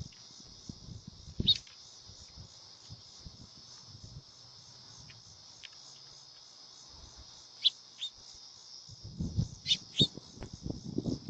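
A steady, evenly pulsing high trill of crickets or similar insects, with short bird chirps about 1.5 s in, twice near 8 s and twice near 10 s. Low bumps and rustles come in over the last two seconds.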